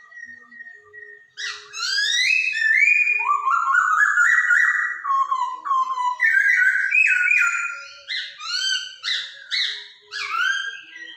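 Chinese hwamei (poksay Hongkong) singing: after soft chips, a loud song begins about a second and a half in, made of runs of rapidly repeated whistled notes, each sliding downward, in changing phrases.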